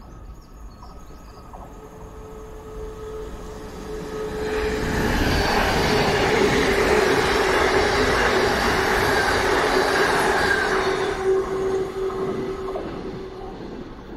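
Electric multiple-unit passenger train passing through the station without stopping. The rush of its wheels on the rails builds, stays loud for about six seconds and fades, with a steady high tone over it.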